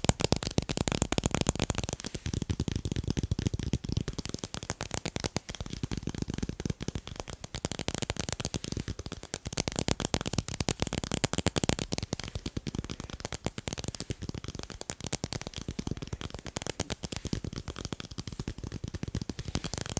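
Fast, continuous tapping on tape: a dense stream of quick, sharp taps with no pauses.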